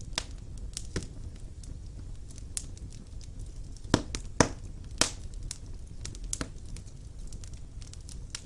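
Wood fire burning in a fireplace: a low steady rumble of flames with irregular crackles and sharp pops, the loudest three bunched together about halfway through.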